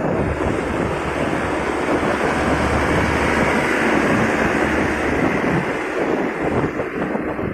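Steady wind rush on the microphone of a moving motorcycle, with the motorcycle's engine and road noise rumbling underneath.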